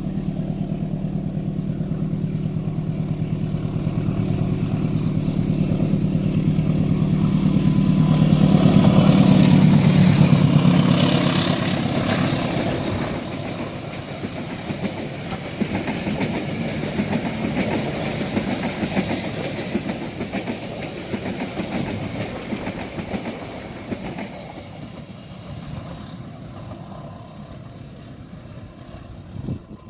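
Indonesian diesel locomotive-hauled train passing: the locomotive's engine drone builds to its loudest about ten seconds in, then the carriages rattle over the rail joints and fade away.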